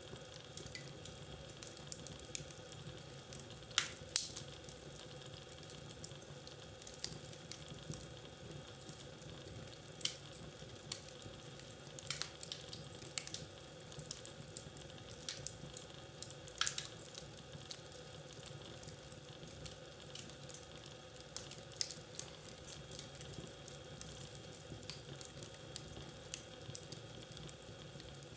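Wood fire crackling in a fireplace: irregular sharp pops and snaps over a low steady hiss, with the loudest pops about four seconds in.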